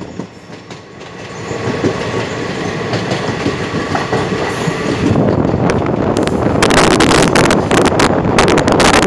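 Passenger train coaches running on the track, the wheels clattering over the rails. The sound is low at first, builds after about a second, and turns into a dense, rapid clatter from about six and a half seconds in.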